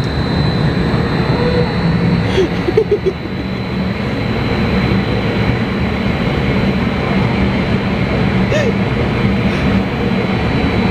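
Hurricane simulator's blower fans running steadily, a loud rush of air over a low hum.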